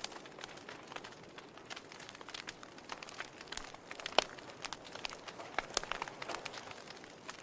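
Wood fire crackling in a fireplace: irregular sharp pops and snaps over a soft hiss, with a louder pop about four seconds in.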